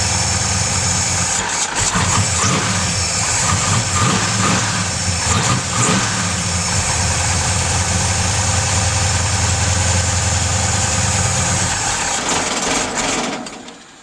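Pontiac 455 V8 on E85 with FiTech EFI running, uneven for the first few seconds and then idling steadily. It shuts off about a second before the end.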